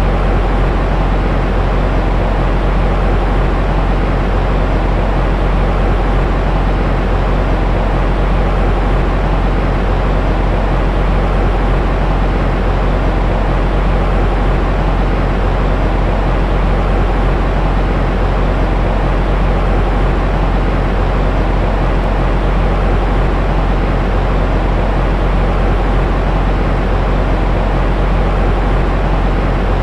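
Continuous white noise for soothing a baby to sleep: an even, unbroken hiss that is heaviest in the low end, a deep rumble under a softer hiss that fades off in the highs.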